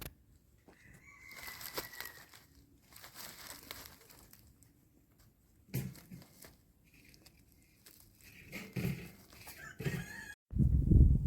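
Chickens clucking with a rooster crowing, over faint rustling. About ten seconds in, a sudden loud low rumble takes over.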